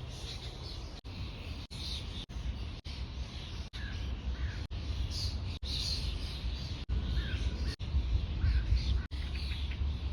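Birds calling outdoors, with short calls scattered through, over a steady low rumble. The sound drops out briefly every half second to a second.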